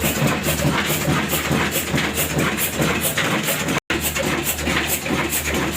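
Old Ruston Hornsby diesel engine running steadily with a regular beat about two times a second, driving an atta chakki flour mill. The sound cuts out for an instant just under four seconds in.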